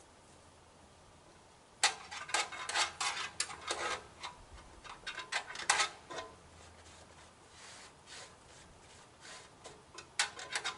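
Irregular scraping and rubbing noises with sharp clicks, coming in quick bursts from about two seconds in, dying down in the middle and starting again near the end.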